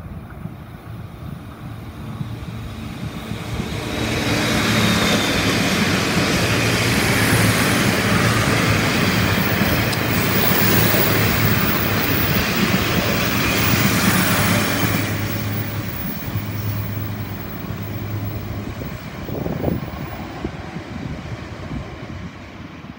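Taiwan Railways Tze-Chiang Limited Express train passing close by: it grows louder over the first few seconds, passes loudly with wheel and rail noise and a steady low hum for about ten seconds, then fades away.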